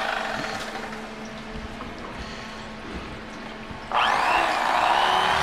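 A small electric motor whining, its pitch bending as it works, cuts in abruptly about four seconds in after a softer stretch of steady hiss.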